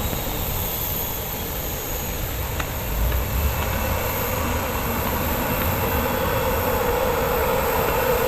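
Aircraft engine noise: a steady rumble and hiss, with a humming tone that grows stronger over the last few seconds.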